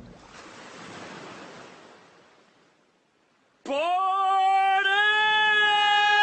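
Airplane noise fading away over the first two seconds or so into near silence, then a loud held sung note starting suddenly a little past halfway.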